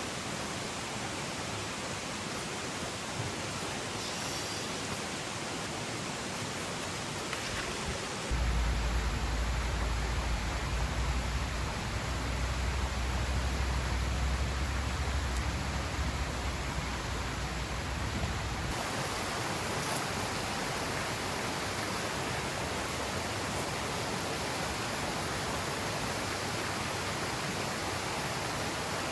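Steady rushing of flowing water from a mountain stream. From about eight to eighteen seconds in, a deep low rumble sits under it.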